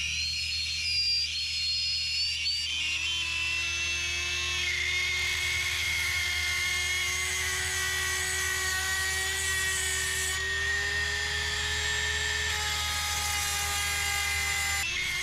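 Old Dremel rotary tool with a chainsaw-sharpening grinding stone, running at a steady high whine as it sharpens the chain's cutters. Its pitch sags a little a few seconds in and then holds.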